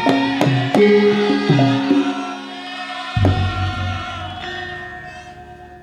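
Javanese gamelan music: sustained metallic pitched tones over sharp drum strokes, closing about three seconds in with one last low stroke that rings on and fades away.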